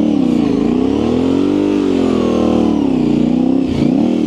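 Yamaha Ténéré 700's parallel-twin engine through an aftermarket high exhaust, its pitch rising and falling with the throttle, and dropping sharply for a moment near the end.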